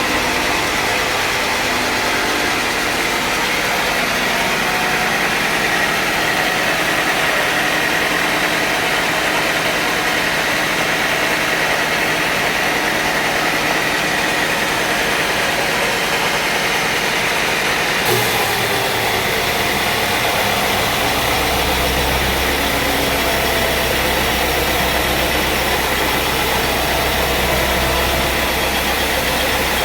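Sawmill machinery running steadily under engine power, with a high whine held through the first part. About 18 seconds in the sound changes abruptly and a deeper, low engine hum comes in a few seconds later.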